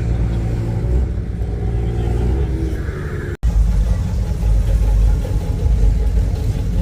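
Car engines running with a deep, steady exhaust rumble. The sound cuts off abruptly about three and a half seconds in, then a louder, deeper rumble takes over.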